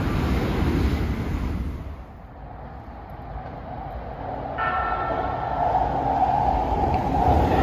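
A Shinkansen bullet train rushing past below, cut off about two seconds in. An electric commuter train then approaches, its high whine and rumble growing steadily louder toward the end.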